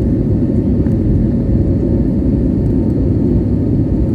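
Airbus A320 engines and airflow heard inside the passenger cabin: a loud, steady low rumble with a faint steady hum above it.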